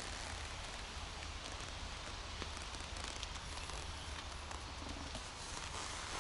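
Steady outdoor background noise with a low rumble, and a few faint clicks and rustles a couple of seconds in.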